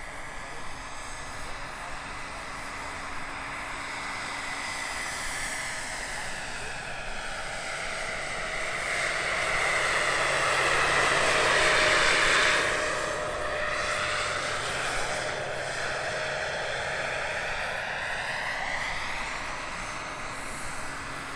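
Giant radio-controlled Bell 412 scale helicopter flying past, its Jakadofsky 5000 turbine whining steadily over the rotor noise. It grows louder to a peak a little past halfway through, then fades as it moves away.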